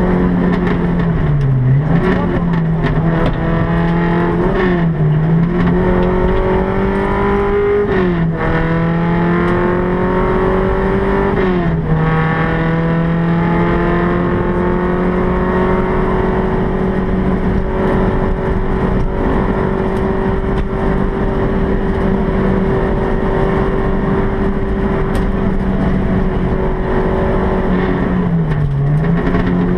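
Volkswagen Golf Mk1 rally car's four-cylinder engine at high revs, heard inside the stripped cabin over road and tyre noise. The pitch climbs and drops sharply at two upshifts in the first half, dips briefly a few times as the throttle comes off, and holds steady for a long stretch in between.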